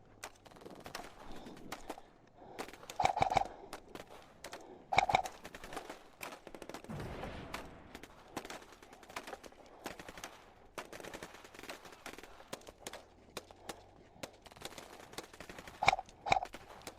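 Airsoft replicas firing in short bursts: loudest about three seconds in, again at five seconds, and twice near the end, amid scattered sharp clicks and snaps.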